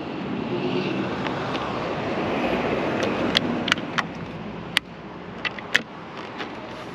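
Plastic pillar molding being pressed down onto its clips beside a windshield: a series of about six sharp clicks and snaps between about three and six seconds in. Under them is a rushing noise that swells and then drops away after about four and a half seconds.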